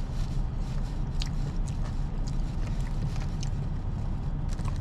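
Chewing, with small scattered clicks, over a steady low engine rumble.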